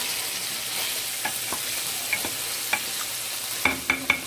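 Food sizzling in a frying pan while a utensil stirs and scrapes it. There are scattered clicks, then a few sharper metallic clinks near the end.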